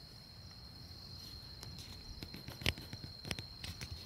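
A steady high-pitched insect trill, like a cricket's, runs throughout. Scattered clicks and rustles close to the microphone cut across it, the loudest about two and a half and three and a quarter seconds in.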